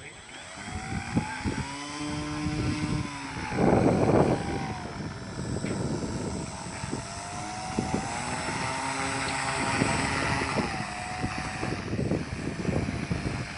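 Propeller of a small handmade MQ-9 model aircraft humming in flight, its pitch wavering up and down, over low wind rumble on the microphone. A loud rush of noise comes about four seconds in.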